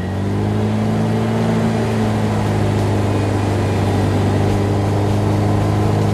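Off-road 4x4's engine running under load at steady revs, with a constant low drone and no change in pitch, while the vehicle is pulled up the track on a strap. The engine is working hard and running hot; the crew calls it overheating.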